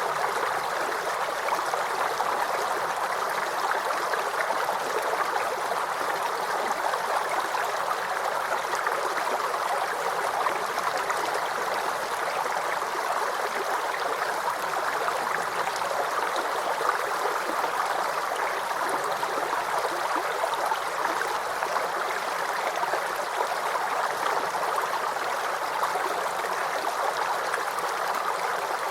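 Shallow brook or creek water running and gurgling over stones, a steady, even flow.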